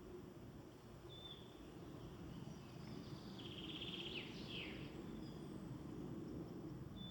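Faint woodland birdsong over a low steady background hush. A short high whistled note comes about a second in and again near the end, and a brief rapid trill with quick falling notes sounds around the middle.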